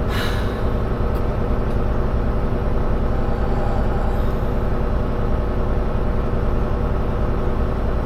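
Volvo semi tractor driving, heard from inside the cab: a steady low engine and road drone. A brief noise comes at the very start.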